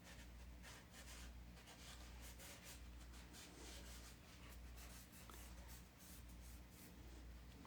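Faint scratchy brushing on a canvas as oil paint is worked over it: many quick, light strokes, over a low steady hum.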